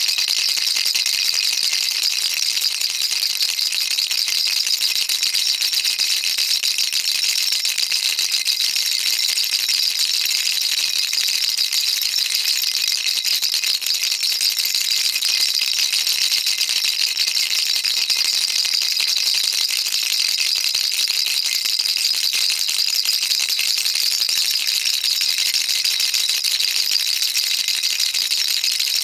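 Baby rattle shaken continuously, a dense, even, high-pitched patter of small beads clicking with no breaks.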